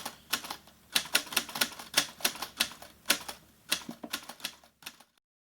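A run of sharp, irregularly spaced clicks, like typewriter keys, that stops abruptly about five seconds in.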